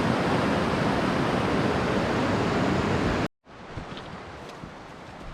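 River water rushing loudly and steadily, cutting off about three seconds in. A much quieter outdoor background with a few faint ticks follows.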